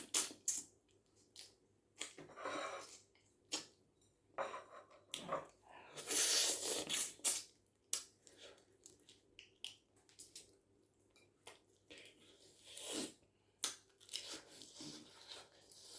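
Close-miked chewing and eating of spaghetti with shrimp and vegetables: irregular wet smacks and small crunches, with a longer, louder stretch about six seconds in.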